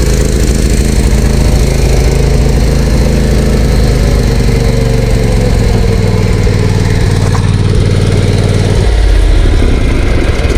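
Zero-turn lawn mower's gasoline engine running steadily after a carburetor cleaning, which the owner believes still has a little dirt in the carburetor. About nine seconds in, the engine note drops lower.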